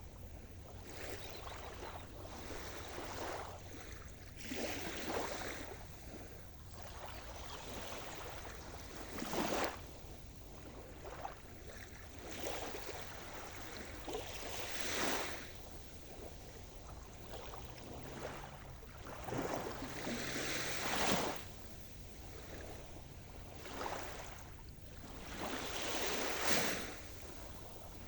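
Sea surf: waves breaking and washing up the shore, swelling in a rush every five seconds or so over a steady background wash.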